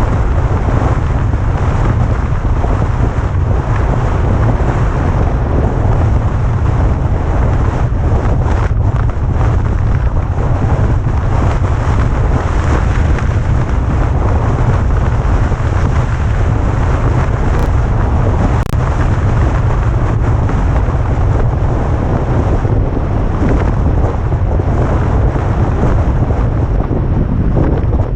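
Heavy wind buffeting on the microphone of a camera on a car descending a mountain road: a loud, steady low rumble with gusting rush that masks the vehicle's own sound.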